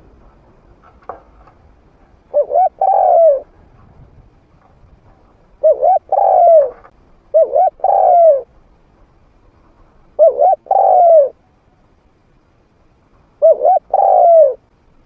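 Spotted dove (nok khao yai), a trained decoy bird with a medium-pitched voice, cooing: about five phrases a few seconds apart, each one or two short coos followed by a longer, falling coo.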